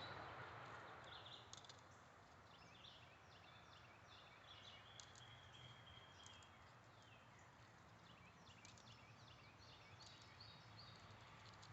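Faint birds chirping: many short, quick chirps scattered throughout over a low, steady background hum.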